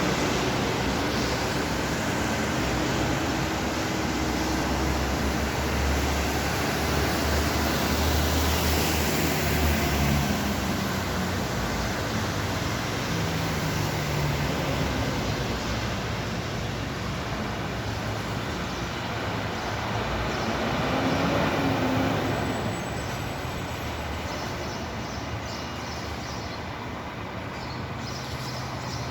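Steady wash of rain and road traffic noise, with the low hum of vehicle engines shifting in pitch and swelling twice as vehicles pass.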